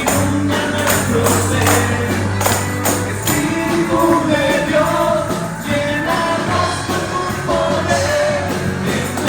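Upbeat worship music with a steady beat: tambourine, bass and singing voices.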